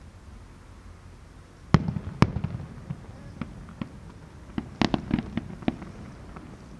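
Distant fireworks bursting: two loud booms with a rumbling tail about two seconds in, then a string of smaller cracks and pops.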